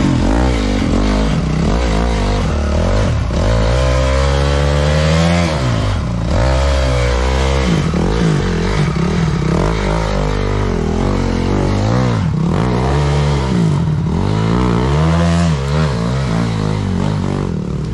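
Dirt-bike engine revving hard, its pitch rising and falling again and again with the throttle.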